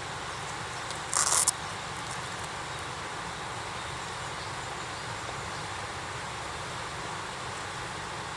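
Steady outdoor background hiss, broken about a second in by one short, loud noisy burst lasting about half a second, with a few faint clicks after it.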